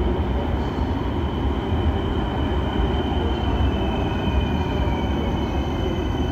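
Electric multiple unit pulling into the platform and slowing: a steady rumble of wheels and running gear, with a faint whine that falls in pitch as it brakes and a steady high tone above it.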